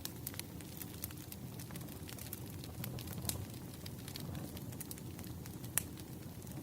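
Fireplace crackling: a steady low rumble of burning wood with scattered sharp pops and snaps, one pop standing out near the end.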